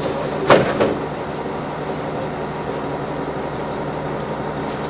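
NovaBus LFS low-floor city bus under way, heard from on board: steady engine and road noise. About half a second in come two sharp knocks a quarter of a second apart.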